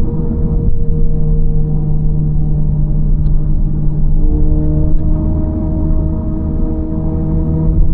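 Honda Civic FL5 Type R's turbocharged 2.0-litre four-cylinder heard from inside the cabin through an HKS Legamax exhaust with an aftermarket downpipe, running at steady revs with a tonal exhaust note; the tone shifts about a second in and again about four seconds in.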